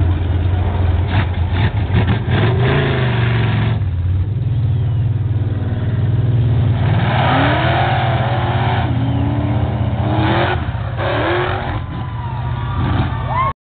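Mud truck's engine running loud and steady, revving up several times in the second half, then the sound cuts off abruptly near the end.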